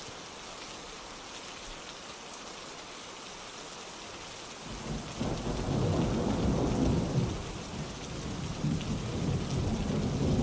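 Steady rainfall hiss, joined about halfway through by a long, uneven rumble of thunder that swells and keeps rolling.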